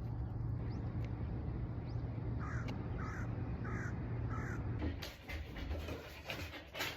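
A crow cawing four times in quick succession over a steady low rumble, followed by a stretch of scratchy rustling near the end.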